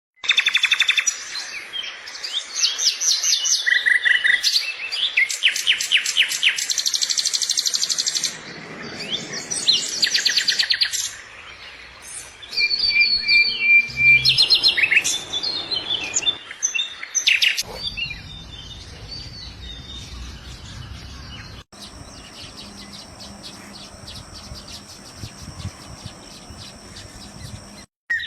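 Calls and songs of several different birds in short spliced clips that change abruptly every few seconds: rapid chirps and whistled notes, then a fast, steady, high trill in the last several seconds.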